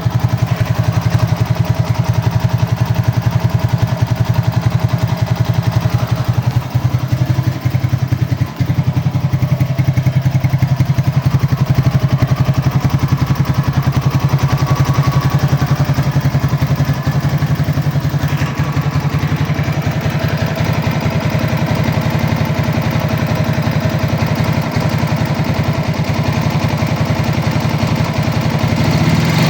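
Engine idling steadily with a knock whose cause the owner cannot place.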